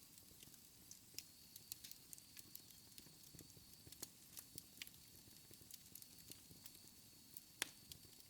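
Wood fire in a fireplace crackling faintly: a soft hiss under irregular small pops, with one sharper, louder pop near the end.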